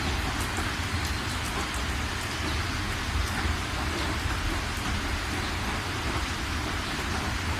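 Steady rain falling, a dense even patter with small scattered drop ticks, over a continuous low rumble.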